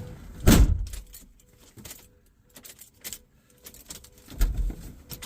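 A van's ignition keys jangling and clicking as the key is worked in the ignition, with a loud knock about half a second in and a low thump near the end. The engine does not crank: the ignition switch is faulty.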